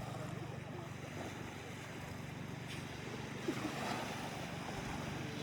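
Seaside outdoor ambience: a steady low engine hum, typical of a boat running offshore, over wind on the microphone and the wash of the sea.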